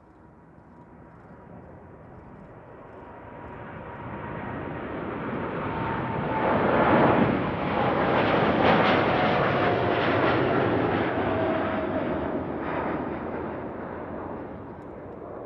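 Jet airliner passing by, its engine noise swelling to a peak about halfway through and then fading, with a whining tone that falls in pitch as it goes past.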